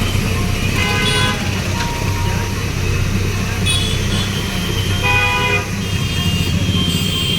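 Heavy engine running steadily, with a horn sounding twice over it: once about a second in and again about five seconds in.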